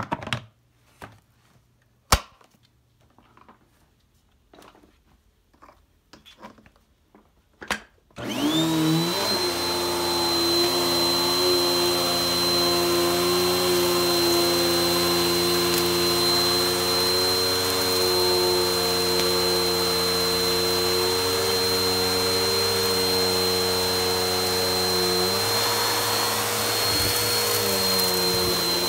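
A few scattered clicks and knocks, one sharp click about two seconds in. About eight seconds in, a vacuum cleaner switches on and its motor spins up to a loud, steady run with a high whine, its tone shifting slightly near the end.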